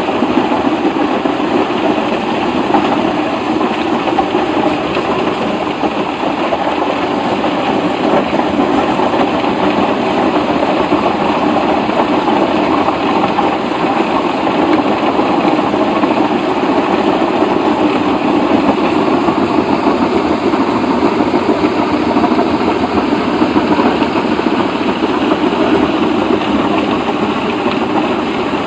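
A machine's engine running steadily at an even, loud level, with no pauses or changes in speed.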